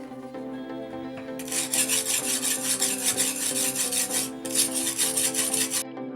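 Tape being peeled off a knife blade: two long, crackling pulls with a short break between them, ending abruptly about a second before the end, over background music.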